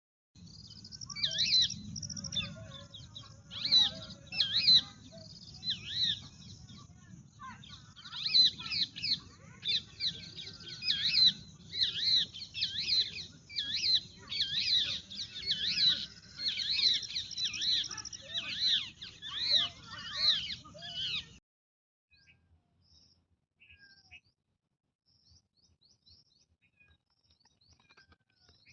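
Birds chirping and calling busily: many quick, rising-and-falling chirps overlapping over a low steady background noise. The sound cuts off abruptly about twenty seconds in, leaving only faint scattered chirps.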